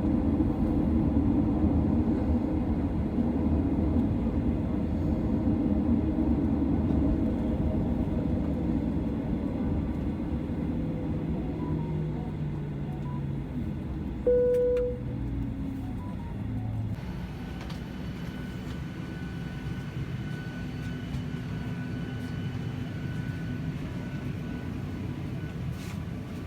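Cabin noise inside a Boeing 737-900 after landing: a steady low rumble that slowly fades, with several pitched lines sliding down about halfway through as the engines wind down. A short single tone sounds near the middle.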